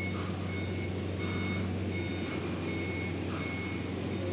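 Vehicle reversing alarm beeping at an even pace, about three beeps every two seconds, over the steady low drone of a running engine.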